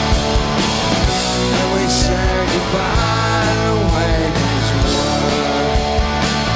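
Punk rock band playing live in an instrumental stretch with no vocals: electric guitars and bass over a steady drum beat, with a guitar note bent up and down about halfway through.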